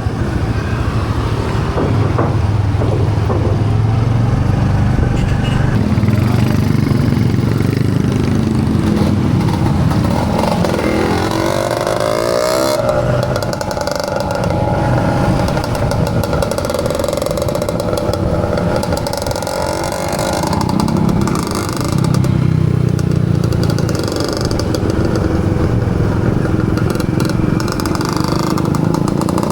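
Yamaha PG1's small single-cylinder four-stroke engine running while riding, its pitch rising and falling several times with the throttle.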